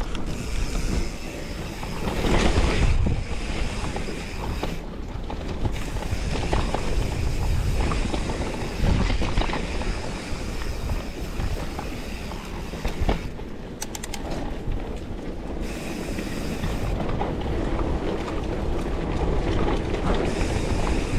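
Mountain bike riding down a wet, slippery dirt trail: a continuous rattle of the bike and tyre rumble over the ground, with scattered knocks from bumps.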